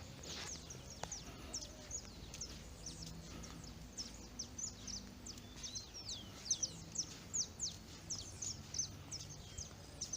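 Birds chirping: many short, high, quickly falling chirps in rapid succession, thickest and loudest a little past the middle.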